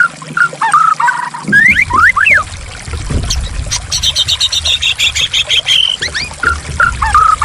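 White-rumped shama (murai batu) song: clear whistled notes sliding up and down, with a fast, high rattling trill in the middle. Trickling, running water starts about a second and a half in.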